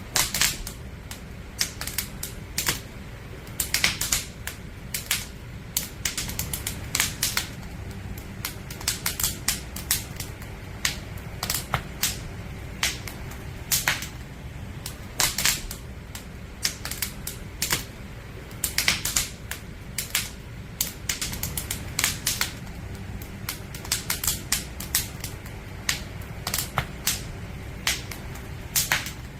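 Firewood crackling and popping in a campfire, with irregular sharp snaps several times a second over a steady low rumble of the fire.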